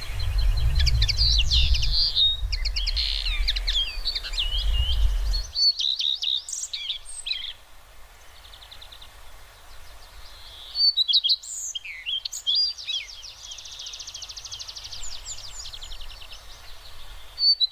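Small birds chirping and singing: many short high calls overlapping, with a fast trill partway through. A low rumble runs under the first few seconds and cuts off abruptly.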